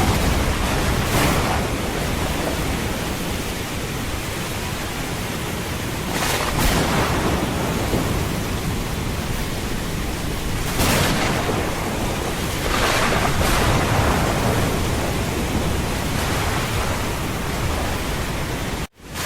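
Heavy rain falling steadily, with low thunder rumbling under it and the noise swelling several times. The sound cuts out abruptly for an instant near the end, then resumes.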